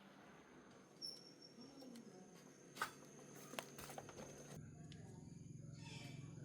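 Near silence: faint room tone with a few light clicks about three seconds in, then a low steady hum.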